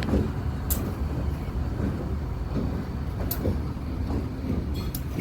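Freight train rolling along: a steady low rumble with a few sharp high clicks at irregular intervals.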